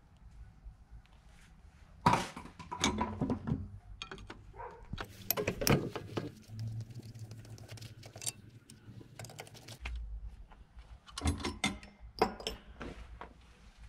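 Metal engine parts and hand tools clinking and knocking against each other during engine disassembly, in irregular clusters of sharp clicks with pauses between.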